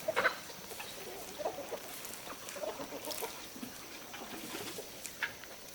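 Chickens clucking in short, scattered calls, with a few faint clicks in between.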